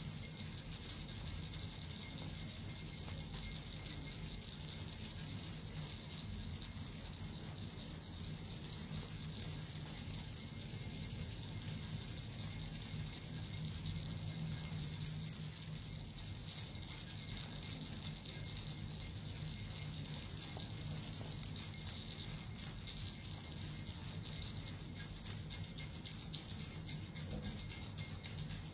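Small jingle bells (suzu) shaken continuously in a dense, steady jingle, with a bright ringing tone held throughout.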